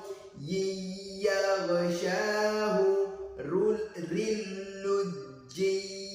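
A man reciting Quranic Arabic in melodic tajweed chant, the phrase "fi bahrin lujjiyyin yaghshahu", in about three phrases with long held vowels.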